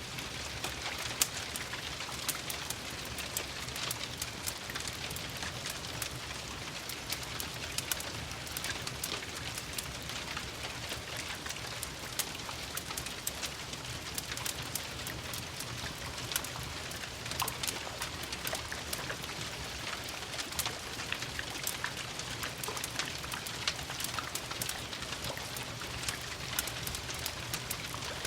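Steady rain with many small, sharp ticks of drops, mixed with a crackling wood fire in a fireplace.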